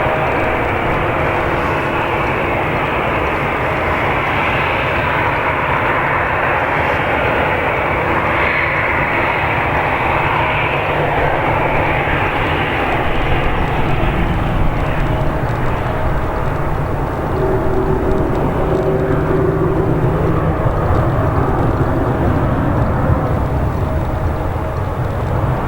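Airbus A319 jet airliner's engines running with a steady rushing roar and a few faint steady tones underneath.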